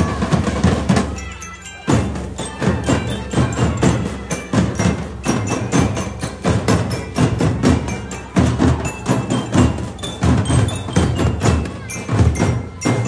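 School marching drum band playing: rapid snare and drum strokes with bell-like metal notes, as from a bell lyra, over them. The drumming thins out for a moment about a second in, then comes back in sharply.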